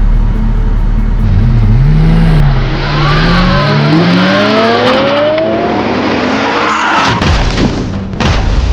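Car engine revving, its pitch swinging up and down and then climbing, with tires skidding. A few sharp knocks near the end.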